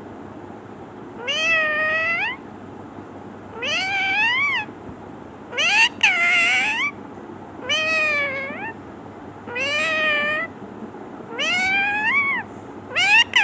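Parrot mimicking a cat's meow, over and over: about six meow calls, each about a second long and rising in pitch, roughly one every two seconds.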